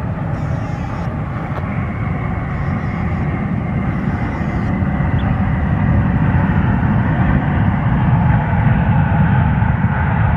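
Jet airliner engines running with a steady rumble and a faint whine, growing slightly louder as the aircraft nears.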